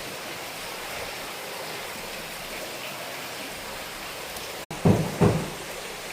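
A steady rushing noise, with two heavy thumps close together about five seconds in.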